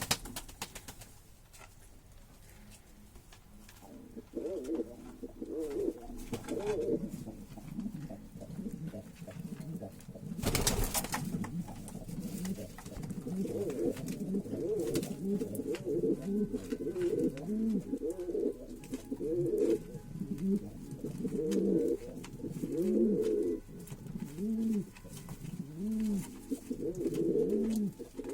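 Ornamental birds cooing, low rising-and-falling calls repeated over and over, settling into a steady rhythm about halfway through. A short loud knock comes about a third of the way in.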